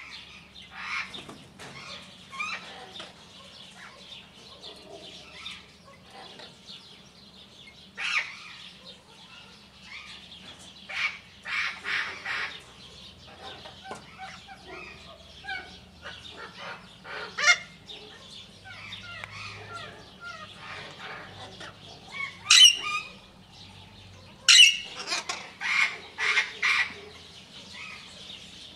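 Birds calling: scattered high-pitched chirps and chatter, with a few loud, sharp calls in the second half and a quick run of calls near the end.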